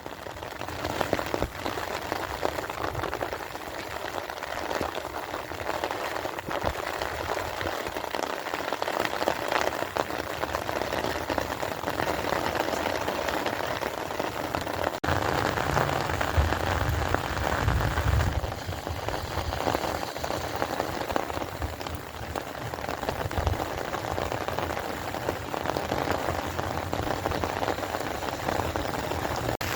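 Steady heavy rain falling and pattering on surfaces, dense with individual drop hits.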